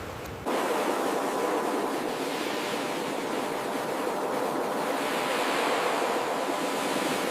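Steady rush of ocean surf that cuts in abruptly about half a second in, sounding like a change to a different recording, with little deep rumble.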